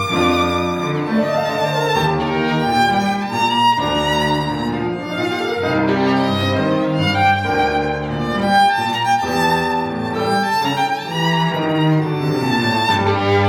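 Live classical chamber music: a violin carries a melody with vibrato over a lower string and bass accompaniment whose bass notes change about every two seconds.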